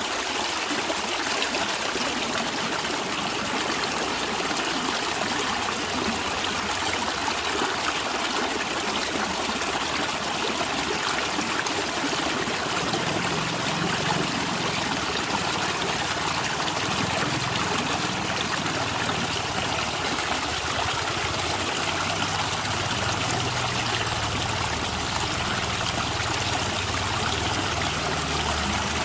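A natural stream running and gurgling steadily. A low rumble comes in underneath about twelve seconds in.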